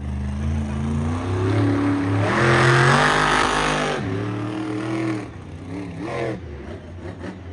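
Car engine revving: the pitch climbs to a loud peak about three seconds in and then drops, followed by a couple of shorter revs before it fades.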